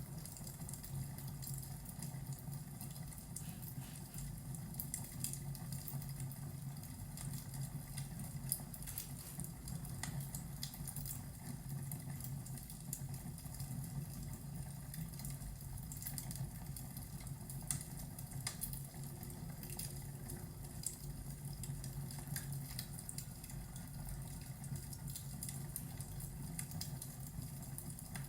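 Fireplace and thunderstorm ambience: scattered small crackles and pops over a steady low rumble.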